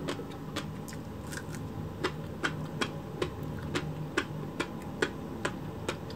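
Chewing komochi konbu, herring roe on kelp: the firm roe crunches and pops with each chew, a sharp crunch about two and a half times a second, steady and even.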